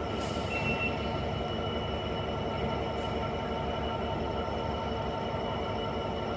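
Passenger train's steady running noise: an even hum with a few held high tones that do not change.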